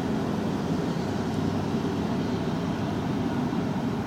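Steady road and engine noise heard inside a car's cabin while driving at about 50 to 55 mph.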